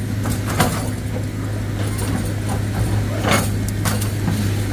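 Heavy diesel machinery engine running steadily, with several sharp knocks: two just after the start and two more about three to four seconds in.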